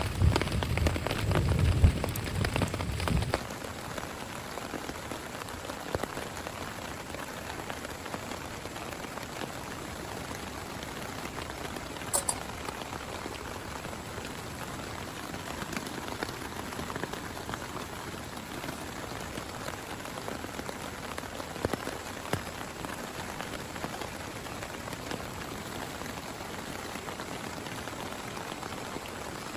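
Rain falling steadily. For the first three seconds it is heavier, with a deep low rumble, then it cuts suddenly to a quieter, even patter with scattered individual drops ticking.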